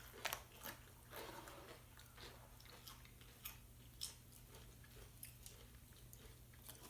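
Faint close-up chewing and crunching of chips, scattered short crackly bites, a little stronger in the first second.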